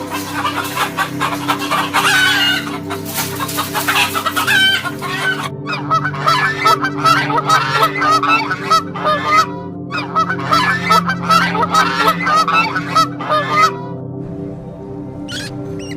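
A flock of poultry calling together, many short overlapping calls, with two brief breaks; the calling stops about three-quarters of the way through, leaving a steady low background tone.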